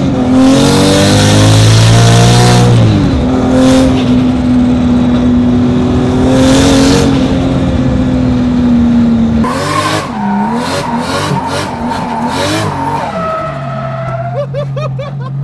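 Toyota Chaser drift car's 1.5JZ straight-six revving hard and rising and falling in pitch, with bursts of tyre squeal. About ten seconds in the revs drop away, and near the end it settles to a steady low idle.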